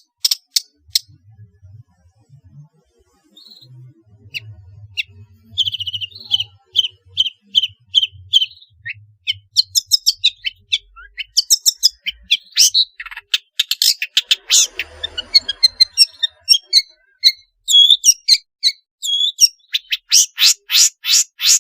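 Long-tailed shrike (pentet) singing a varied song: after a short pause, an even run of notes, then a dense mix of different chirps and whistles, closing with a fast run of harsh, even notes near the end.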